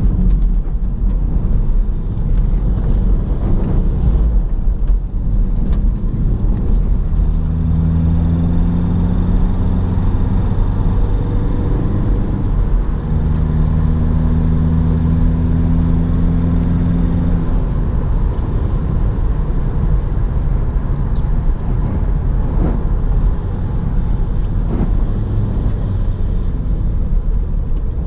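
Opel Astra 1.6 BiTurbo CDTI four-cylinder diesel car under way, a steady low rumble of engine, tyres and road. Twice around the middle an engine hum holds a steady pitch for several seconds, the car cruising at constant revs.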